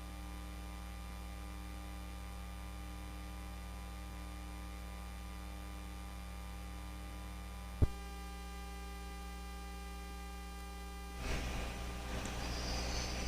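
Steady electrical mains hum with its stack of even overtones, broken by a single sharp click about eight seconds in. Near the end a rushing noise fades up over the hum.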